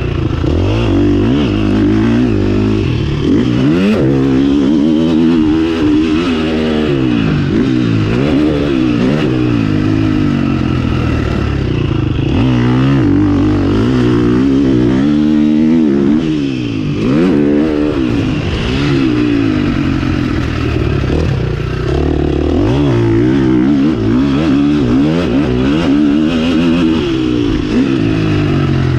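KTM 350 SX-F single-cylinder four-stroke motocross engine under load, its pitch climbing and falling over and over as the throttle is opened and closed.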